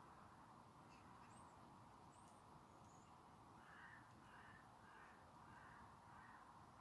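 Faint, distant bird calls: a run of about five short, arching calls roughly half a second apart starting about midway, with a few thin, high chirps from another bird earlier.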